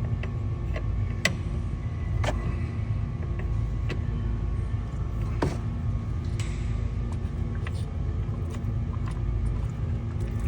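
Scattered sharp clicks and taps of a wrench working the drain plug loose from the bottom of a diesel fuel filter housing, over a steady low rumble. There is a brief hiss about six and a half seconds in.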